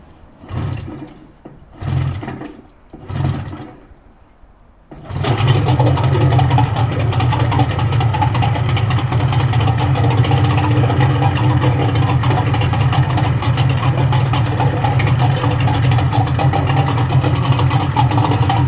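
Mesan 9.9 two-stroke outboard motor, bored out to 20 hp and 326 cc, being pull-started on its first start. Three short bursts come as the cord is pulled, then about five seconds in the engine catches and runs steadily.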